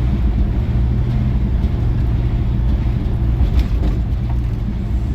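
Vehicle engine running steadily: a low, even drone.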